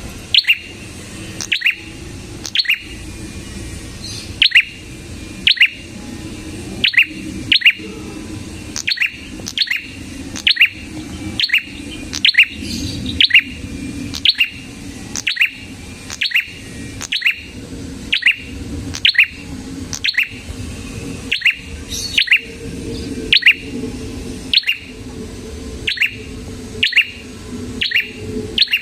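A prenjak kepala merah (red-headed prenjak) calling nonstop: sharp, short, downward-sweeping chirps repeated evenly, about one every two-thirds of a second, over a faint low hum.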